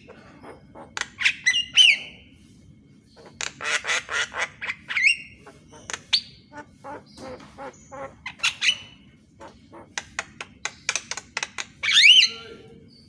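Javan myna singing: rapid clicking chatter broken by loud harsh squawks and short whistled notes that glide up and down, the loudest near the end.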